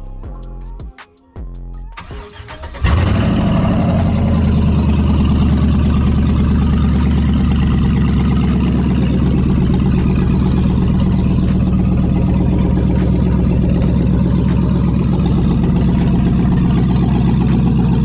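2006 Chevrolet Silverado V8 running on open exhaust manifolds with the exhaust system removed: it fires up suddenly about three seconds in and then idles loudly and steadily with a rapid, raw pulsing. It sounds nasty and horrible.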